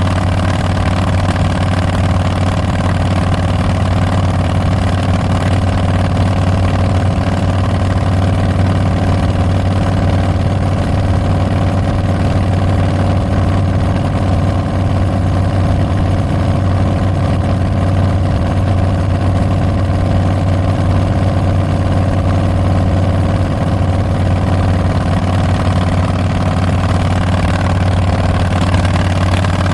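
Harley-Davidson Street Bob's Milwaukee-Eight 114 V-twin running through Tabs Performance slip-on mufflers with Zombie Baffles, at a steady engine speed with no revving.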